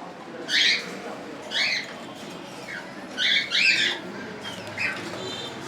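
Cockatiels calling in an aviary: a series of short, shrill rising chirps, four loud ones and a few fainter ones in between.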